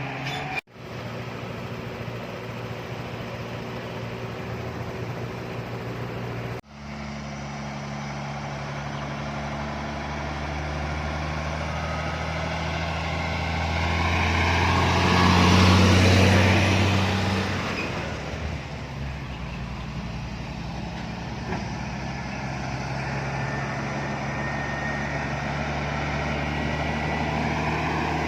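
Heavy container truck's diesel engine climbing a mountain grade. It grows louder as it passes close by about halfway through, then fades, with two brief breaks in the sound near the start.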